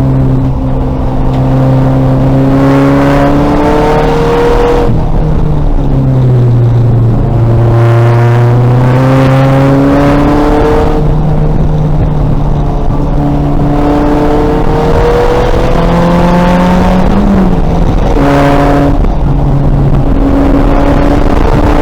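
2000 VW Golf race car's engine running hard, its pitch climbing under acceleration and then dropping at several gear changes.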